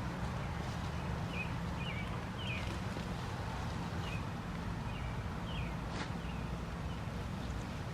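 Short bird chirps repeating every second or so over a steady low rumble, with one sharp click about six seconds in.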